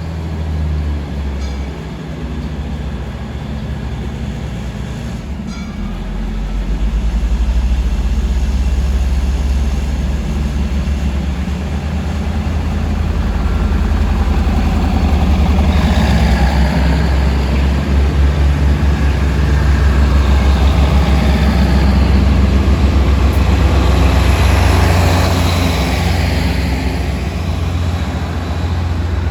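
Diesel train running on the rails: a steady low engine drone, with wheel-and-rail noise that swells in the middle and eases off near the end.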